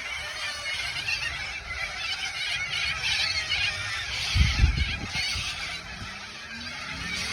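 A large flock of birds calling all at once in a dense, continuous chorus, with goose-like honking. A brief low rumble about four and a half seconds in.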